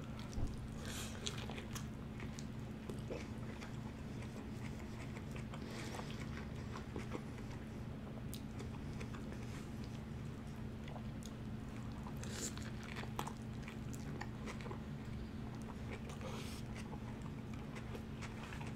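Close-up biting and chewing of a lettuce-wrapped In-N-Out burger, with scattered short crisp crunches of lettuce. A steady low hum sits under it.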